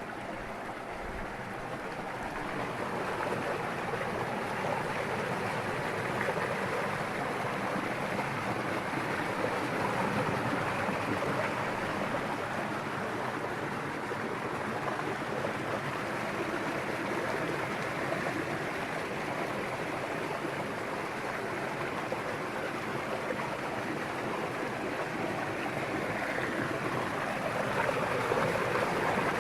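River water flowing and rushing over rocks, a steady, even sound of running water that gets a little louder near the end.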